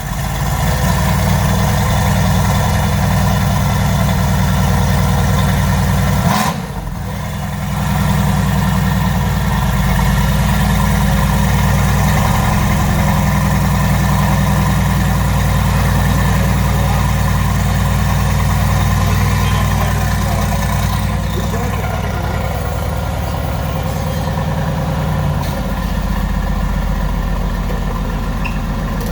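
Mercedes-AMG GT's 4.0-litre twin-turbo V8 running at a steady, loud cold-start fast idle just after start-up. The note dips briefly about six seconds in, then settles a little lower and quieter near the end as the idle comes down.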